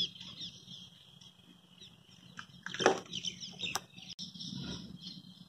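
Small birds chirping and twittering continuously in the background over a low steady hum, with one brief louder burst about three seconds in.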